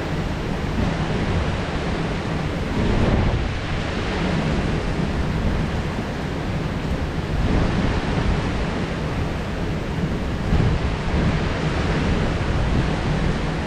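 Heavy downpour of rain hissing steadily, with low rumbling of thunder underneath; the wash swells louder about three times.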